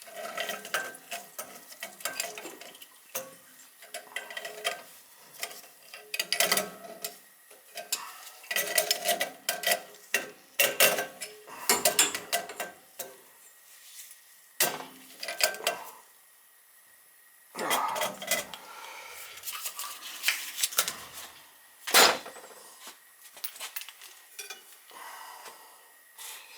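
Irregular metal clinks and clanks of hand tools and boiler parts being handled and knocked together, with a short lull about two-thirds of the way in and one sharp knock soon after.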